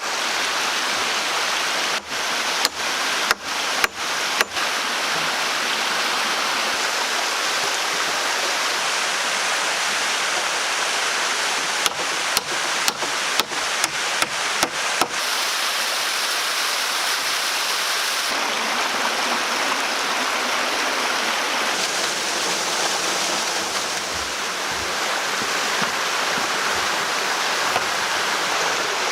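Steady rushing of a stream. Two runs of sharp strikes cut through it: about five blows roughly two seconds in, and about seven more near the middle.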